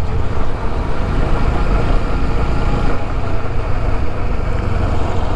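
TVS Apache RTR 160 4V motorcycle's single-cylinder engine running steadily at cruising speed while being ridden, mixed with steady wind rush over the microphone.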